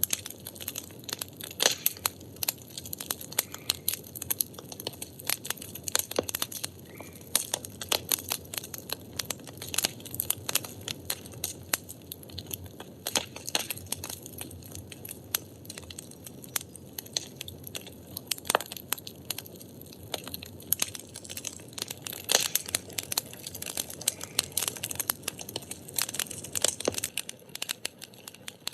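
Firewood burning, with frequent irregular sharp crackles and pops over a steady hiss.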